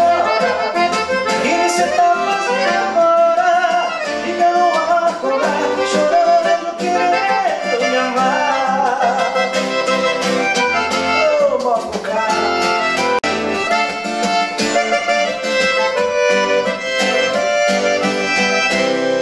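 Accordion playing a melodic instrumental break over band backing in a sertanejo song, with runs and sliding phrases between sung verses.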